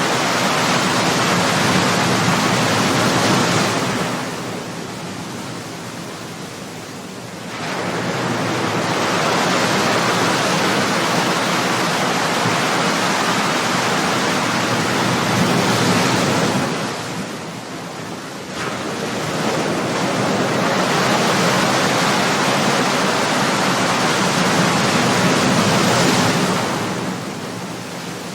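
Ocean waves breaking on the shore: a rushing surf that swells, holds for several seconds, then falls away into a short lull. This happens three times, about every ten seconds.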